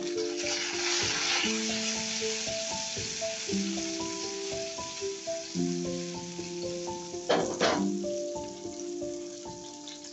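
Stuffed okra sizzling as it fries in hot oil in a nonstick pan, the hiss heaviest in the first couple of seconds, with two sharp knocks about seven seconds in. Background music plays under it.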